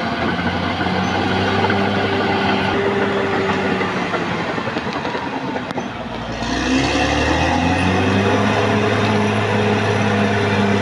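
Caterpillar D6R XL bulldozer's diesel engine running under load. It eases off a little past the middle, then comes back up and runs steadily again.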